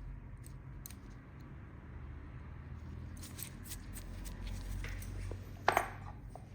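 Toenail nippers working on a toenail: faint clicks and scrapes in the second half, then one sharp, loud snip near the end, over a steady low hum.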